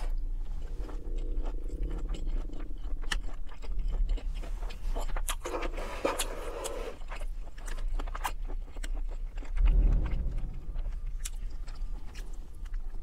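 Close-up chewing of a mouthful of chicken Alfredo pasta with shrimp, with many short wet mouth clicks and smacks spread through the chewing.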